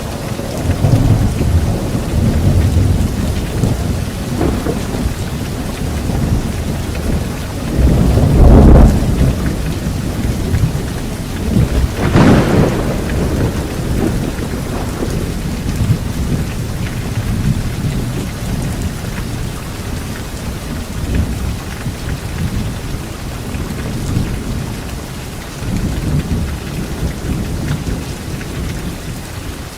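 Thunderstorm: steady rain with rolling thunder throughout, swelling into two loud thunderclaps around a third of the way in, the second a sharper crack, then rumbling on more softly.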